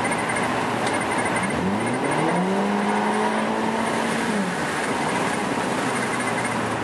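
Volkswagen Jetta MK6 2.0 TSI turbocharged four-cylinder running loud through a straight 3-inch exhaust with no mufflers. About a second and a half in it revs up, holds the higher revs for about two seconds, then drops back to idle.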